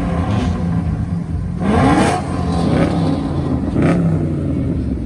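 Car engine revved twice, the pitch sweeping up about two seconds in and again near four seconds, then dropping back to a steady idle.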